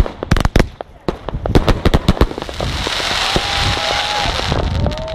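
Fireworks exploding in quick succession, many sharp bangs close together, then a steady hissing crackle as a shell's glittering stars burn out, with long held whistle-like tones over it near the end.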